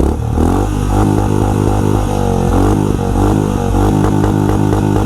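Honda H'ness CB350's single-cylinder engine running at the exhaust, its note rising and falling several times as the throttle is blipped.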